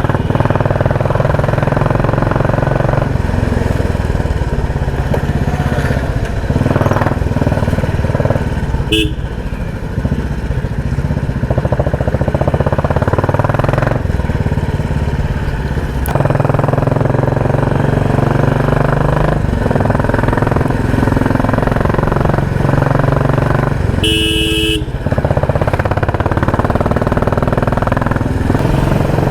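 Royal Enfield Classic 350's single-cylinder engine running through a loud exhaust on the move, rising and falling with the throttle. A vehicle horn honks briefly about nine seconds in and again for about a second near the end.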